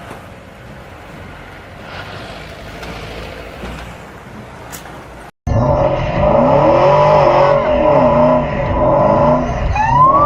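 Steady road noise from a moving car, cutting abruptly about five seconds in to a loud car sound with squealing tyres and an engine rising and falling in pitch. A siren starts to wail near the end.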